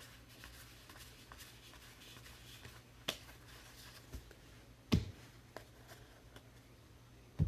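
Trading cards and packs being handled on a table: soft rustling with three sharp taps, about three seconds in, about five seconds in, and at the end.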